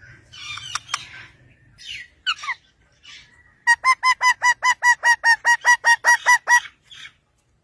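Parrot calling: a few harsh squawks and a falling call, then a rapid run of about fifteen short calls at one pitch, some five a second, lasting about three seconds.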